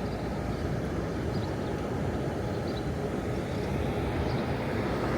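Steady city street background: a low, even rumble of traffic with no single distinct event.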